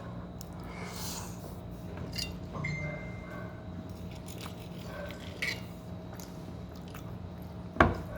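A person chewing and biting food, with scattered small clicks and soft mouth noises over a steady background hum. A sharp knock near the end is the loudest sound.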